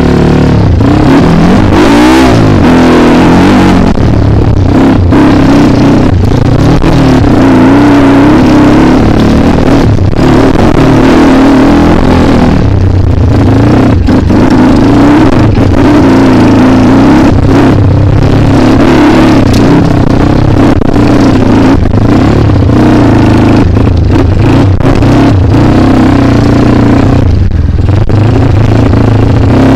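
Single-cylinder KLX dirt bike engine running loud and hard under throttle, its pitch rising and falling over and over as the rider works the throttle on an enduro trail.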